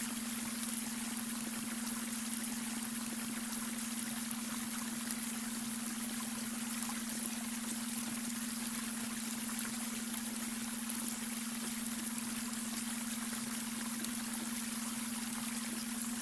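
Babbling brook, water running and trickling steadily, with a steady low hum underneath: the beta brainwave tone blended into the water sound.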